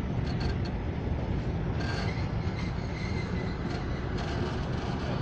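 Passenger train running along the track, heard from on board: a steady rumble of wheels on rails, with a few brief high-pitched squeals.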